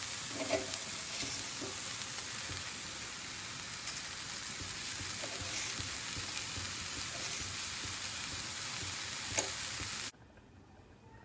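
Chopped banana flower frying in oil in a pan: a steady sizzle, with a few sharp clinks as it is stirred. The sizzle cuts off abruptly about ten seconds in.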